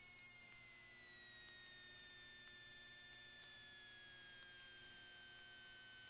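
Electrical noise in an aircraft intercom feed: a high chirp repeating about every second and a half, over thin faint tones that slowly fall in pitch, with the engine itself gated out.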